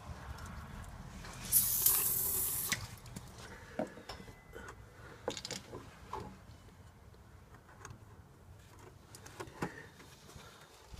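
A hiss of about a second from an aerosol can of starting fluid sprayed into the mower engine's intake, about a second and a half in, with a few light clicks and knocks of handling around it. The engine is not running.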